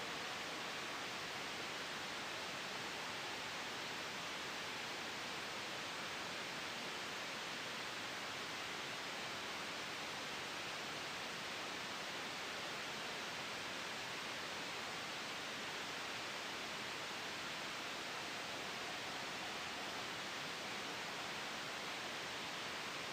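Steady white noise blended with a soft wind ambience: an even hiss, strongest in the upper-middle range, with no changes.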